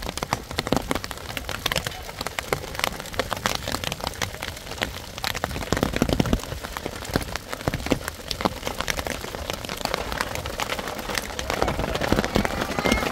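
Heavy rain falling, with a dense patter of individual drops striking a surface; it grows louder near the end.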